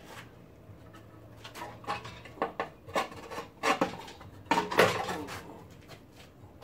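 Metal hand tools and loose steel parts clinking and clattering against each other, a series of sharp clinks that come thickest in the middle of the stretch.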